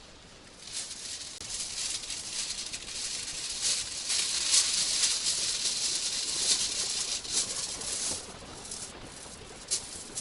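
Aluminium foil crinkling as it is handled and wrapped around frozen sausages. It is a dense, crackly rustle that stops about eight seconds in, followed by a few separate crinkles.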